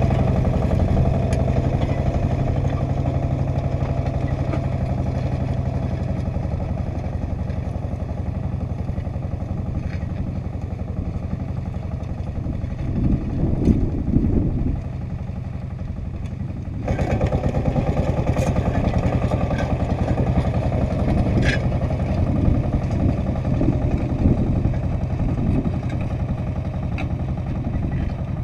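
Agria 8980 articulated tractor's engine running steadily under load while harrowing grass, with a light rattle from the machine. About halfway through it surges briefly, eases off for a couple of seconds, then comes back up abruptly.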